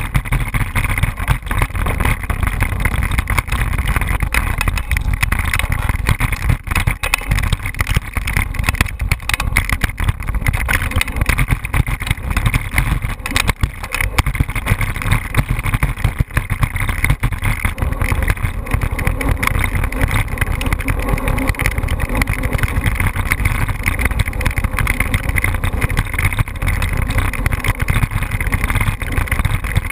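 Wind buffeting the camera's microphone: a loud, steady rushing rumble, heaviest in the lows, that flutters rapidly in loudness.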